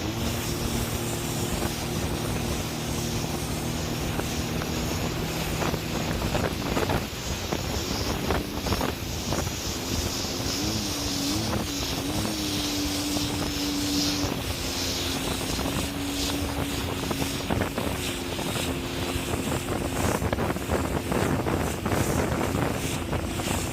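Jet ski engine running at speed, its pitch wavering up and down briefly about halfway through, with wind buffeting the microphone.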